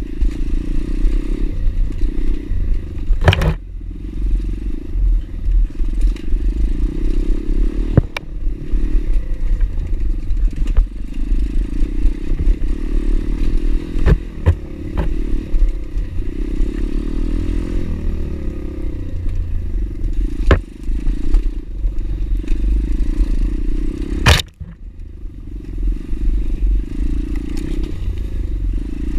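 Pit bike riding over rough ground: a steady, loud engine rumble with clattering and a few sharp knocks. The engine drops off briefly about five seconds before the end.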